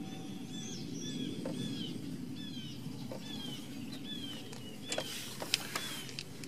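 A bird chirping over and over, short downward-sliding chirps about two a second, over a steady low background hum. A few sharp metallic clicks, a wrench on the brake hose fitting, come near the end.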